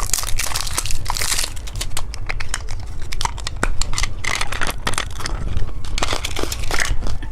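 Plastic candy packaging crinkling and crackling in a dense, irregular run of sharp clicks and rustles as it is handled and opened.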